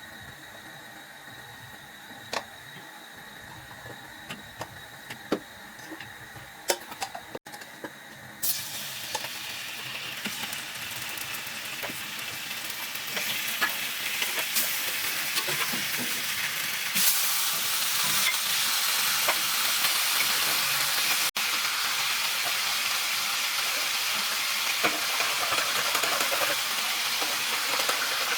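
A few light clinks of a utensil against a pan, then food starts sizzling as it goes into hot oil, the frying hiss growing louder in two steps and holding steady.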